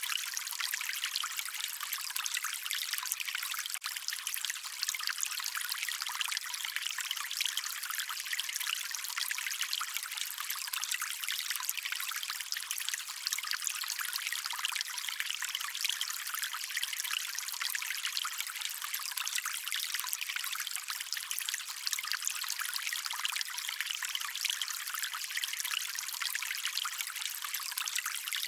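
Shallow stream of water trickling and splashing steadily, a bright, light sound without deep rumble.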